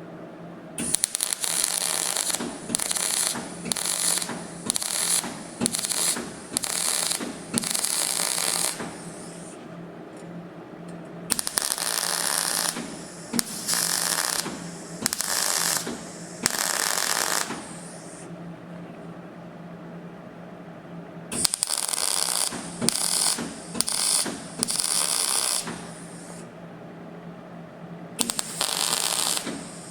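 MIG welder stitch-welding thin steel sill panel: short bursts of crackling arc, each about a second long, in runs of several with pauses of a couple of seconds between runs. A steady low hum continues underneath.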